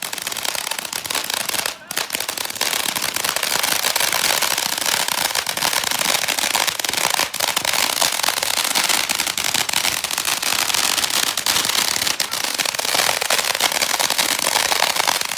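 Ground firework fountains spraying with a steady, dense crackling hiss. It dips briefly about two seconds in and cuts off suddenly near the end.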